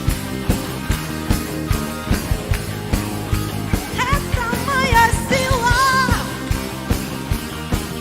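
Worship band playing a rock-style song with a steady drum beat and guitar; a voice sings a held, wavering line from about halfway through.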